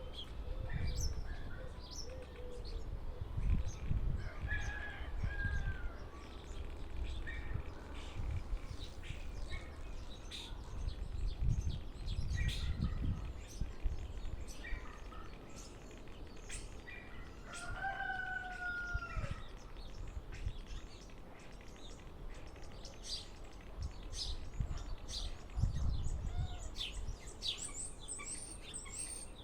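A mimicking pet bird vocalising in a long run of short clicks, chirps and whistles. A few of the whistles slide down in pitch, clearest a little past halfway, and a high, fast trill comes near the end. Low rumbling bursts run underneath.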